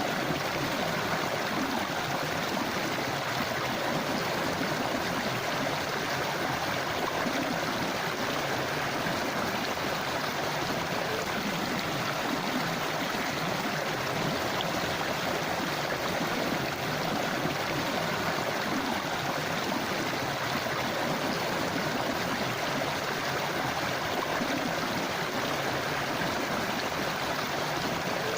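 A forest river or stream flowing steadily over rocks, an even rushing and babbling of water.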